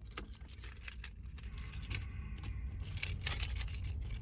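Many short, light jingling clicks over a low steady rumble.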